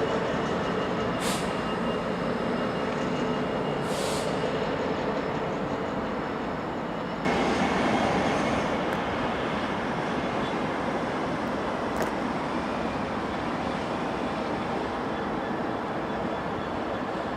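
A train running on the line: a steady hum with several held tones and a few sharp clicks. About seven seconds in it turns suddenly louder and noisier, and stays so.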